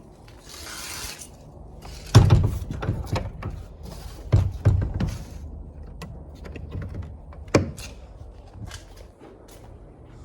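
A few heavy thuds and knocks. The loudest comes about two seconds in, two more land close together around four and a half seconds, and another follows later, with lighter clicks between. A brief hiss sounds in the first second.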